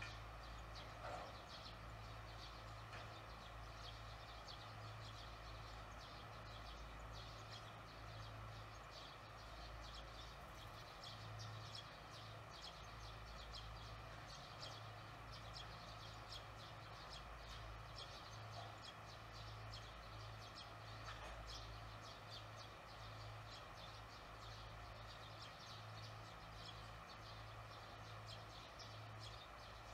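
Faint high chirping of small birds, short quick chirps repeating throughout, over a low steady hum.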